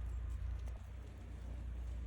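Low wind rumble on the microphone with a few soft knocks of footsteps in snow.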